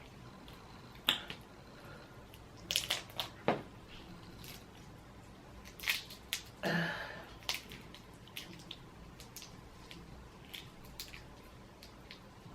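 Boiled crawfish being peeled and eaten close to the microphone: scattered sharp cracks and clicks of shell with wet squishes, the busiest stretch about three seconds in.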